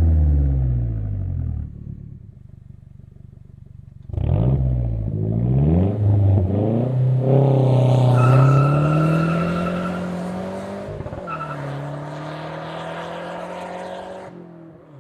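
Exhaust of a Mazdaspeed 3's turbocharged 2.3-litre four-cylinder with the resonator and muffler removed. The revs fall off and settle low, then about four seconds in come loud quick rev rises and falls. A long pull follows with climbing pitch and a high whine over it, broken by a brief drop like a gear change, then another pull before the engine backs off near the end.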